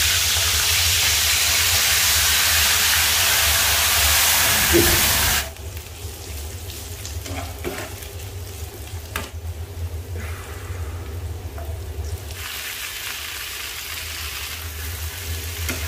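Fish frying in hot oil in a pan, a loud steady sizzle that cuts off sharply about five seconds in. Then a quieter sizzle of chopped vegetables being stir-fried, with a metal spatula scraping and clicking against the pan. The sizzling swells again near the end as leafy greens go into the pan.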